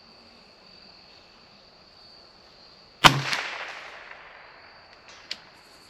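A single shot from a CZ 457 bolt-action .22 LR rifle about three seconds in, a sharp crack with a short fading echo, followed by a small click near the end. Crickets chirr steadily in the background.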